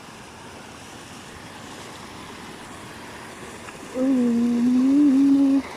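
Steady rush of flowing water. From about four seconds in, a voice sings or hums one long, slightly wavering note that stops just before the end.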